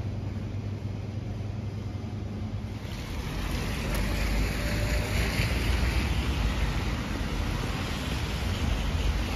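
A steady low hum at first, then from about three seconds in heavy rain falling on wet pavement and tarmac, a loud, even hiss with a low rumble under it.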